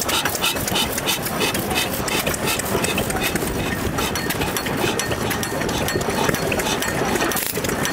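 Old stationary hit-and-miss engine running at low speed, with a steady mechanical clatter and a regular click about three times a second.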